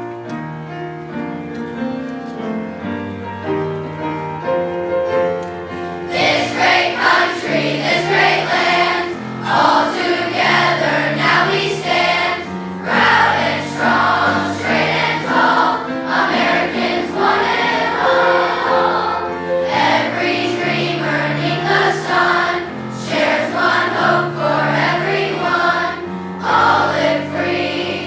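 Piano introduction, then a children's choir comes in singing about six seconds in, with the piano accompanying.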